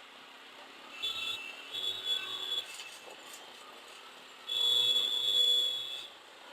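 Vehicle horns honking in street traffic: two short high-pitched honks, then a louder honk lasting about a second and a half past the middle, over a low hiss of traffic.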